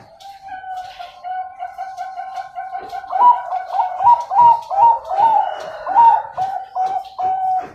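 Zebra doves cooing: a steady, continuous coo, with a run of about eight quick, slightly higher notes in the middle.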